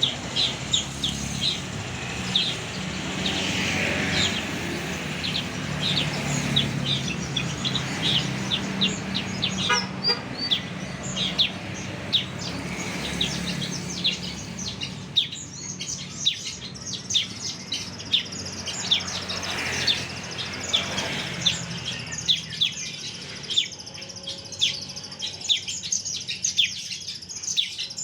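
A small songbird singing, a long run of quick, short, high chirps with a couple of rapid trills. A low steady hum lies underneath for most of it and fades out in the last quarter.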